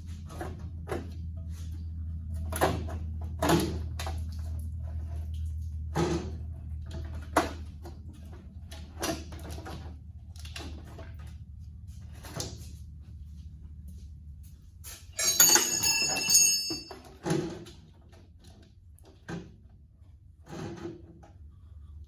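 Scattered knocks and clicks of hand tools against metal tractor parts, with a steady low hum underneath that weakens about two-thirds of the way through. About fifteen seconds in comes a second-long metallic rattle with a ringing clink.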